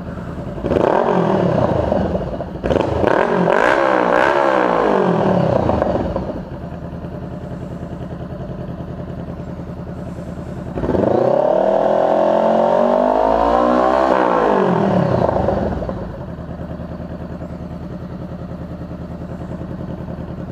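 Honda CBR500R parallel-twin engine breathing through a Coffman's exhaust with its baffle removed, idling and blipped up three times: two quick revs, then a longer one that climbs and falls back to idle. It is loud, and echoes in a garage.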